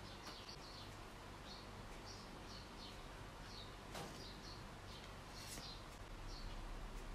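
Faint, short, high chirps of small birds, scattered irregularly at about two a second, over a low steady hum, with one sharp click about four seconds in.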